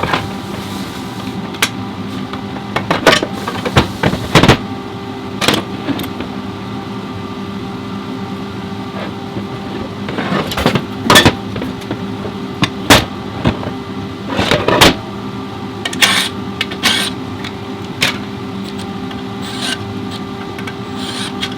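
A steady mechanical hum runs throughout, with irregular metallic clanks and knocks from tools and parts being handled, bunched a few seconds in and again around the middle.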